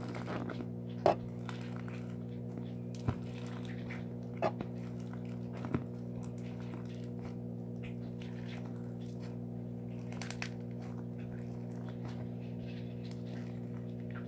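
Steady low electrical hum, with a few sharp pops and clicks about one, three, four and a half and six seconds in and faint crackling between: slime being squeezed and poked.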